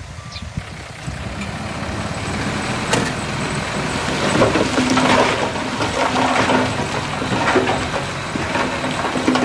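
Heavy diesel earthmoving machinery running and growing louder, with a steady engine tone and scattered knocks and clatter.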